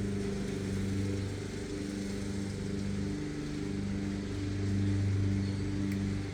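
Lawn mower engine running steadily, briefly growing louder about two-thirds of the way through.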